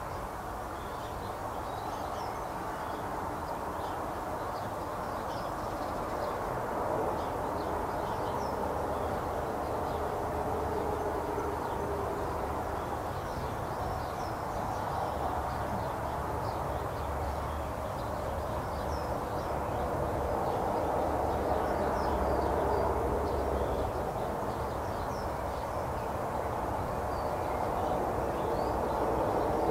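Birds calling in the background: short, faint high chirps scattered throughout, over a steady low rumble that carries most of the loudness.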